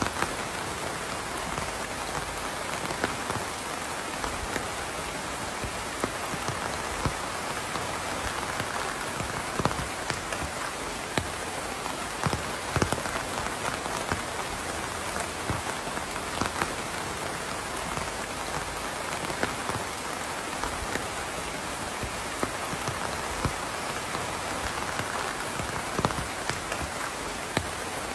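Steady rain falling, an even hiss with heavier drops hitting a surface now and then.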